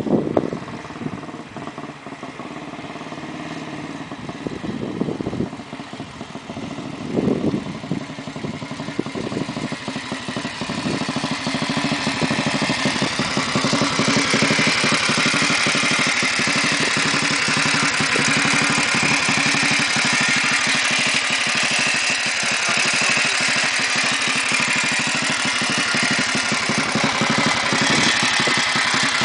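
Junak motorcycle's single-cylinder four-stroke engine, growing louder over the first dozen seconds as the bike approaches, with a couple of brief swells in revs along the way. It then runs steadily at idle up close, its firing beat even.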